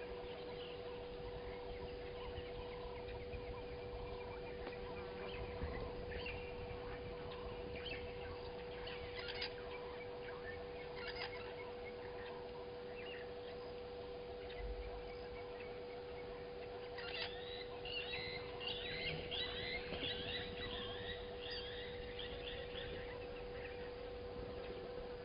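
Wild birds calling: scattered short calls, then a longer run of rapid chattering calls past the middle, over a steady low hum.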